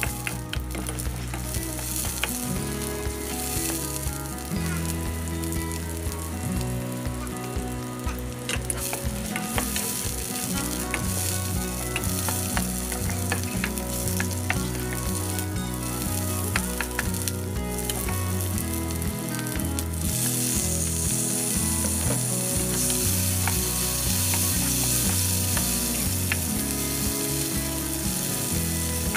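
Garlic, onion and tomato sizzling as they sauté in hot oil in a granite-coated pan, stirred with a spatula that scrapes and taps against the pan. The sizzle grows stronger about two-thirds of the way in.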